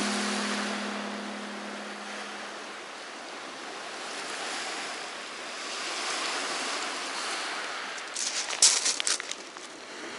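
Surf breaking on a pebble beach, swelling and easing in waves. A held musical note fades out in the first couple of seconds, and a brief clatter of sharp clicks comes near the end.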